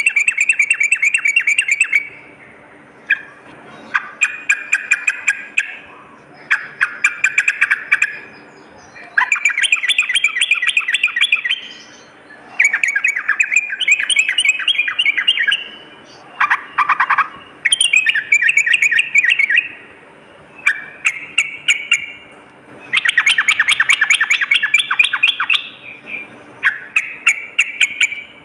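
Yellow-vented bulbul (trucukan) singing: repeated phrases of fast, chattering notes, each lasting a second or two, with short pauses between them.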